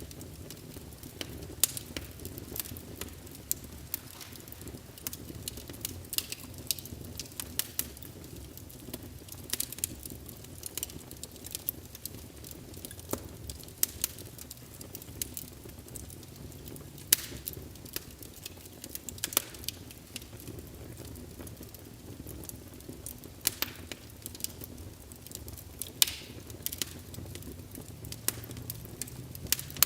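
Wood fire in a fireplace crackling, with irregular sharp pops, a few of them louder, over a steady low rumble of the flames.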